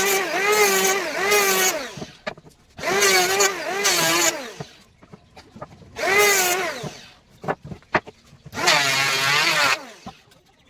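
A handheld electric power tool cutting into wood in four short bursts. Its motor pitch dips and recovers again and again as the cut loads it.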